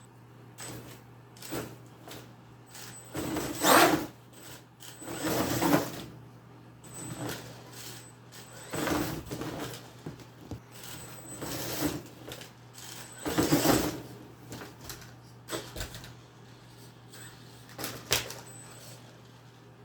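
Brushless electric RC monster truck driven in short, irregular throttle bursts every second or two, with its tyres and chassis clattering and knocking on cardboard boxes.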